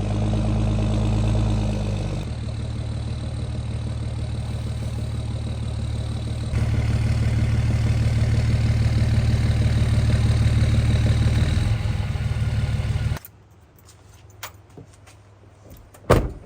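Dodge Ram 2500 pickup engine running while reversing into a parking spot, its level stepping up and down a few times, then switched off about 13 seconds in. A few faint clicks follow, and a single sharp knock near the end.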